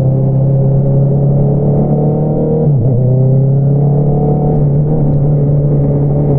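2022 Honda CBR650R's inline-four engine running through an Akrapovič single-outlet exhaust under way, its pitch climbing slowly. About three seconds in the note briefly dips, then climbs again.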